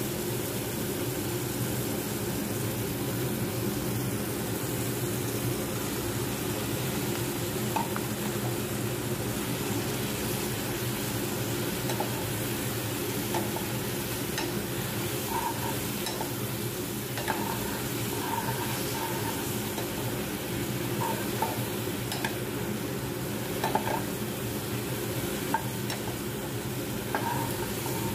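Vegetables and then pasta sizzling in a hot non-stick wok while a metal spoon stirs and scrapes through them, with a steady frying hiss and scattered short clicks of the spoon against the pan, more frequent in the second half.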